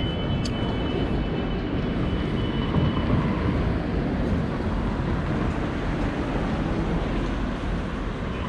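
Steady rumble of wind and road noise from riding an e-bike through city traffic, with a faint thin high tone over the first three seconds.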